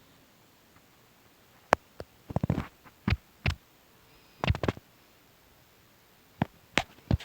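Irregular knocks, taps and short scrapes from a box being handled and opened, coming in separate bursts every second or so.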